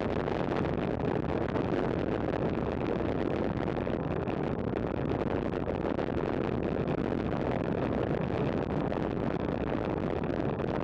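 Steady rush of wind and road noise on a camera riding along with a bunch of road cyclists, an even sound with no breaks.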